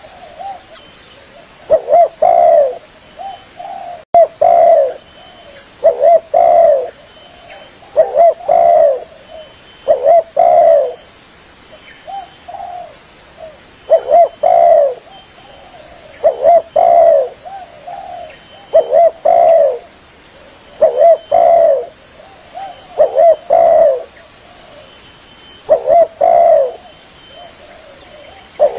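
Spotted dove (tekukur) cooing over and over, a phrase of a few coos about every two seconds.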